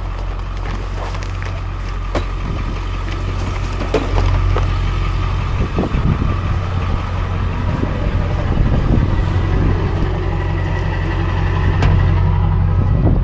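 Truck engine running at low speed, a steady low hum, with scattered clicks and crunching knocks over it; the sound grows a little louder about four seconds in.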